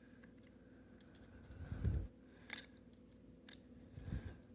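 Small metal clicks and handling noise of a pick or small screwdriver probing inside the frame of a Smith & Wesson M&P Shield 9mm pistol, feeling for the small internal lever. Two sharp clicks come about a second apart in the middle, with soft low bumps from the gun being handled around them.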